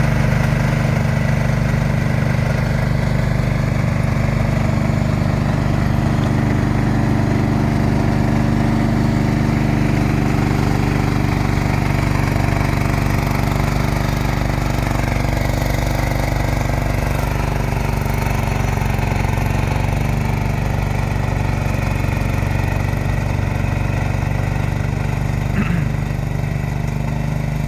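John Deere tractor engine running steadily while clearing snow.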